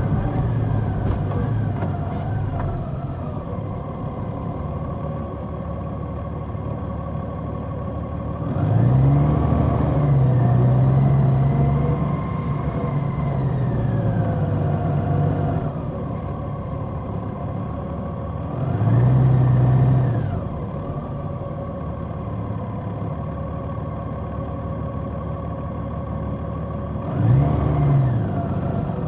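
Large motorcycle's engine heard from the bike while riding: a steady cruising note, with the engine pitch rising and holding three times as the throttle is opened, a long pull about nine seconds in, a short one a few seconds later and a brief one near the end.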